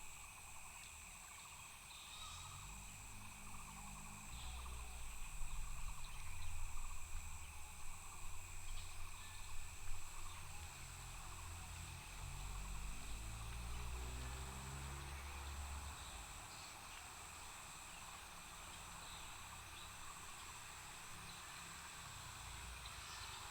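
Outdoor ambience with insects keeping up a steady high trill. Under it a low rumble swells in the middle, then fades.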